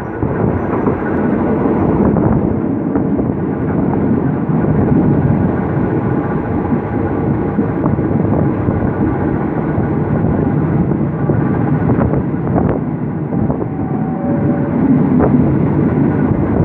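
Passenger train running along the track, heard from an open carriage window: a steady rumble of wheels on rail, with a few sharp clicks from about twelve seconds in.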